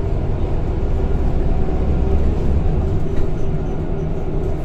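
Scania K230 bus with a ZF automatic gearbox, heard from inside while under way: a steady low engine drone and road rumble with a faint, even whine above it.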